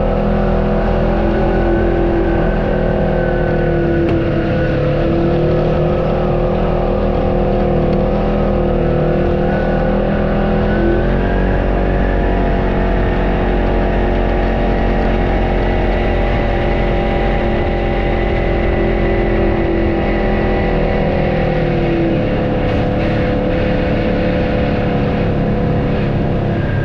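Off-road vehicle's engine running steadily as it drives the trail, its pitch rising and falling slowly with the throttle.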